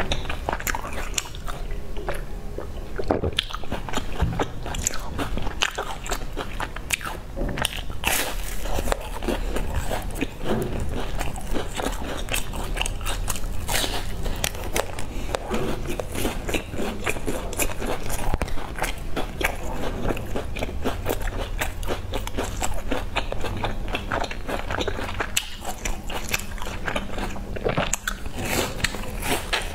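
A person biting and chewing sesame-crusted round baked cakes close to a clip-on microphone: a dense run of small sharp crackles with wet mouth sounds throughout.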